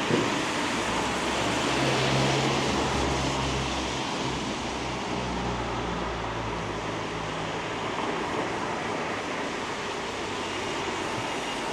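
Steady hiss of light rain on a wet street. A vehicle's low engine hum swells about two seconds in and fades out by about seven seconds.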